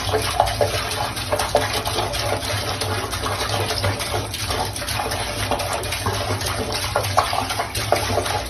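Running water with small irregular splashes: a steady hiss.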